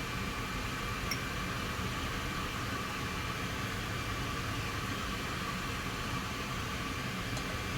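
Steady even hiss with a faint hum, unchanging throughout, with one small light tap about a second in.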